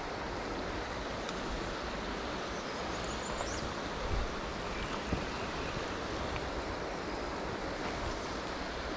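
River current rushing steadily over rocks, a constant noise with a couple of faint knocks about four and five seconds in.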